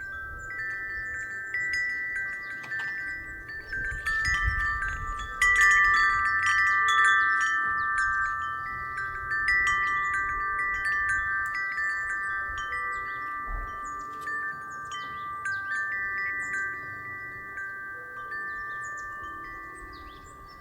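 Wind chime ringing in the breeze: several clear pitches struck again and again, overlapping and ringing on. It swells about five seconds in, with a low rumble of wind on the microphone, then slowly fades.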